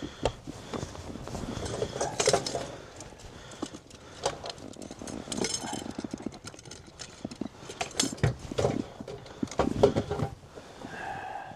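Irregular clicks and knocks of gear being handled in a bass boat while a fish is culled, with a few louder knocks about two, eight and ten seconds in.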